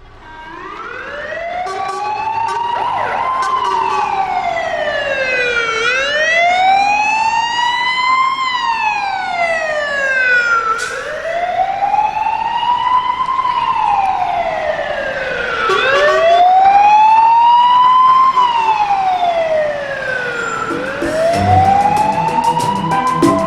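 London Fire Brigade fire engine siren sounding a slow wail, its pitch rising and falling about every five seconds, fading in at the start and staying loud, on an emergency call.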